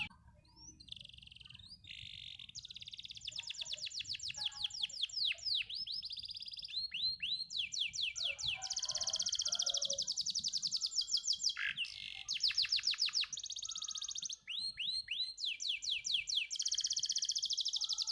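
Domestic canary singing a long, continuous song of fast trills and rolls, each a rapid run of repeated falling notes, broken only by brief pauses.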